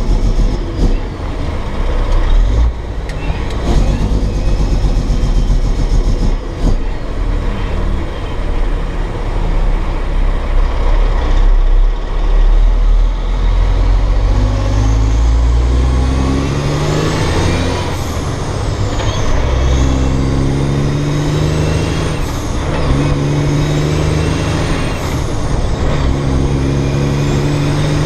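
Dump truck's Cat C15 diesel engine under way, a steady heavy rumble at first, then pulling up through the gears of its 13-speed transmission: the engine pitch climbs and drops at each shift, roughly every three seconds, over the second half, with a high whistle rising and falling along with each pull.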